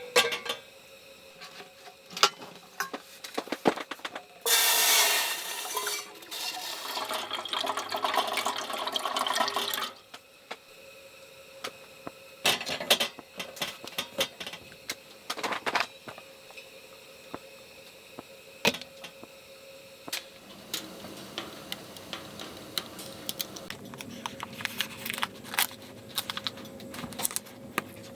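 Water poured into a vessel for about five seconds, with clinks and knocks of dishes and cookware being handled before and after.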